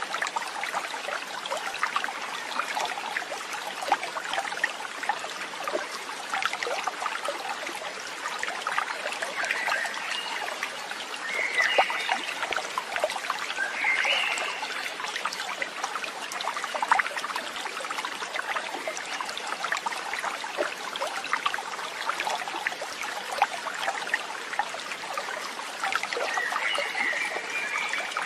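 A stream of water trickling and babbling steadily over stones. A few short chirping calls come over it a little after the middle and again near the end.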